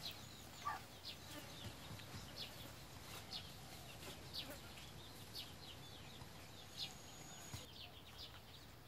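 Faint, high bird chirps, one short falling note about every second, over a low steady background hum.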